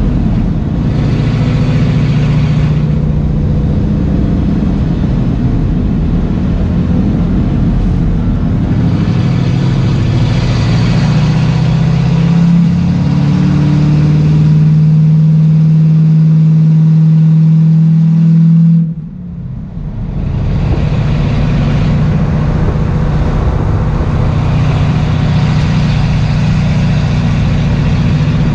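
Race car engine running hard at high revs, heard from inside the stripped, caged cabin with wind and road noise. The engine note climbs slowly along a straight, drops away sharply for about a second two-thirds of the way through, then picks back up and runs on steadily.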